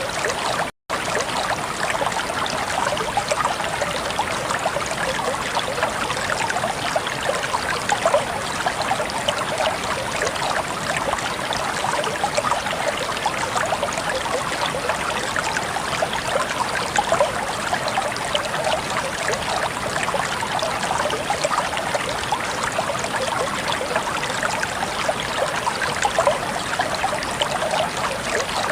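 Water flowing and babbling steadily in a stream, a continuous bright trickling. The sound cuts out completely for an instant just under a second in.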